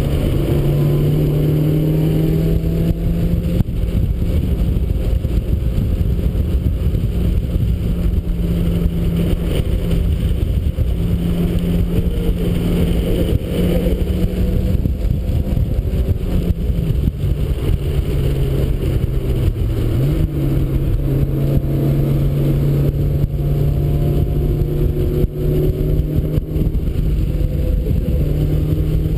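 1991 Mazda Miata's 1.6-litre four-cylinder engine running hard on track, its pitch climbing and falling repeatedly as it accelerates, shifts and slows, over steady road and wind noise.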